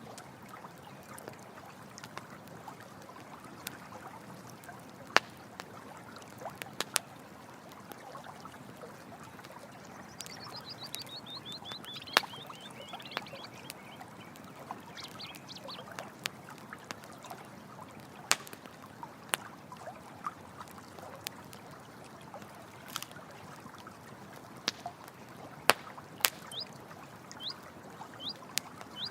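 Running stream water with a campfire crackling, giving irregular sharp pops over the steady flow. About ten seconds in a short, high trill steps down in pitch, and a few faint high chirps come near the end.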